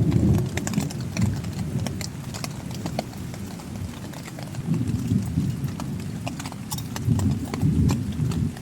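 Heavy raindrops tapping irregularly and sharply, over a low rumble that swells up twice, near the middle and near the end.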